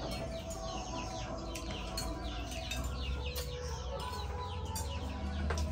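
Birds chirping over and over in many short, falling calls, with a low hum underneath that grows louder near the end.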